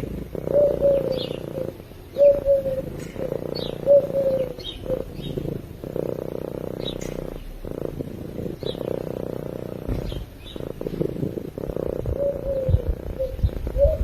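A cat purring steadily, with birds calling over it: short falling cooing notes repeating every second or so, and brief high chirps. A few low thumps come near the end.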